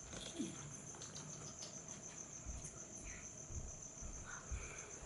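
Faint, steady, high-pitched pulsing trill running throughout, with a few soft low thumps in the second half.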